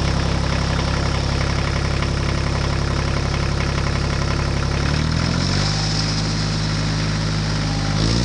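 An engine idling steadily; its pitch rises about five seconds in and holds there, then drops back near the end.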